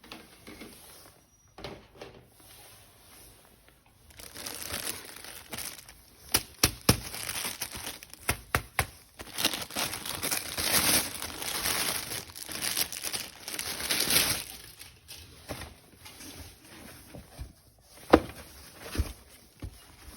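Packaging being crinkled and torn open by hand. It starts about four seconds in, crackles with many sharp clicks for around ten seconds, and then eases off, with one sharp click near the end.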